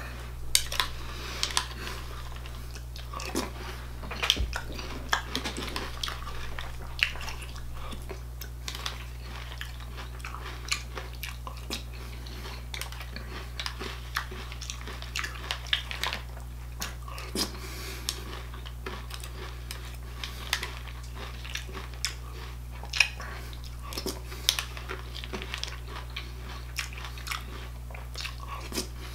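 A person chewing mouthfuls of granola cereal close up, with many small, irregular crunches and clicks.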